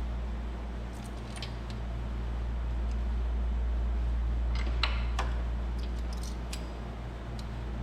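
Light metallic clicks and clinks of small engine parts and tools being handled and fitted, in a few short clusters, over a steady low hum.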